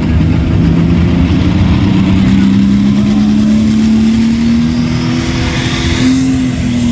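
Hot farm class pulling tractor's engine running at full throttle under load on the pulling track. The engine note climbs slowly and steadily, then dips slightly near the end.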